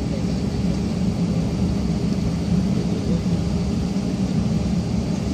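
Airliner engines running, heard inside the passenger cabin as a steady rumble with a low hum.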